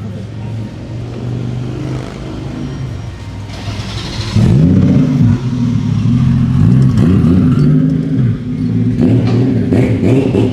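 BMW car engine and exhaust while driving: steady running at first, then from about four seconds in louder, revving up and easing off several times as the car accelerates.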